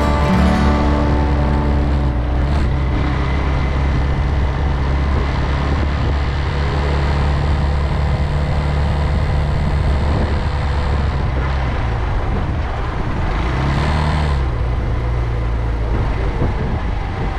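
Motorcycle engine running steadily while riding, with road and wind noise. The engine note rises and drops briefly about fourteen seconds in.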